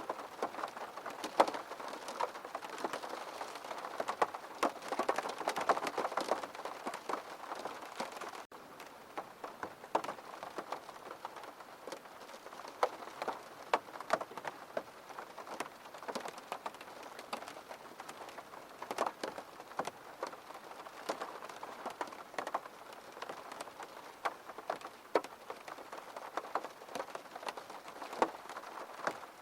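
Steady rain falling, a continuous patter with many separate, sharper drops striking close by. There is a momentary drop-out in the sound about eight seconds in.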